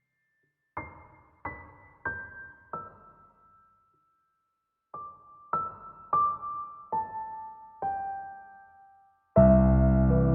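Soft background piano music: single notes struck one by one and fading, stepping downward in two short phrases with a pause between, then a fuller, louder passage of chords entering near the end.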